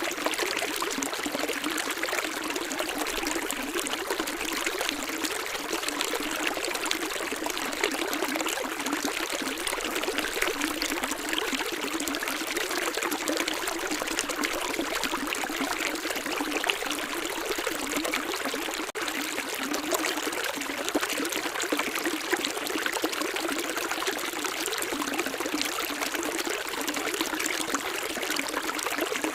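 Water running in a small stream, a steady splashing trickle with almost no low rumble.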